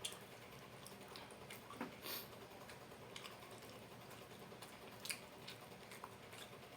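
Faint eating sounds: a person chewing a mouthful of crispy fried chicken and rice, with a few short sharp clicks and smacks, the loudest at the very start, around two seconds in and about five seconds in.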